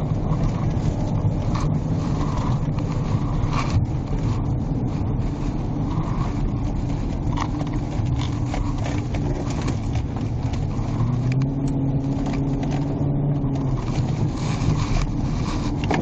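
Car driving, with engine and road noise heard from inside the cabin; an engine hum holds steadier for a couple of seconds past the middle, with light clicks and rattles now and then.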